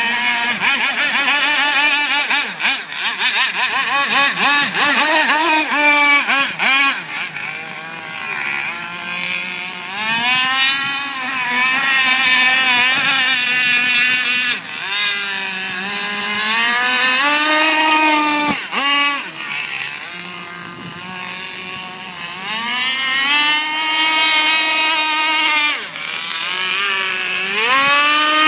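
Small fuel-powered engine of a radio-controlled model boat running at high revs. Its pitch rises and falls over and over as the throttle is opened and eased, with a brief dip about two-thirds through.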